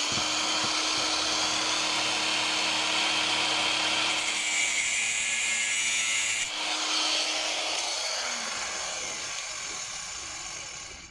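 Electric angle grinder running at full speed with a steady motor whine, its disc cutting through a lawnmower throttle cable with a harsh grinding hiss. The cutting noise stops about two-thirds of the way through, and the grinder is switched off and winds down to a stop.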